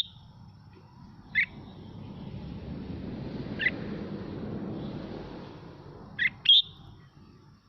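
Red-whiskered bulbul giving short, sharp single notes: one, then another, then a quick pair near the end. Under them a low rushing noise swells and fades in the middle.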